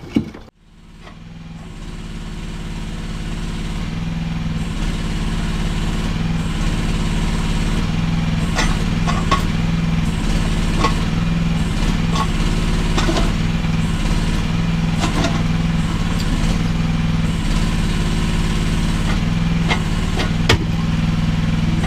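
Small mini excavator's engine running steadily, fading in over the first couple of seconds, with scattered sharp knocks and clunks of the machine working against broken cinder block.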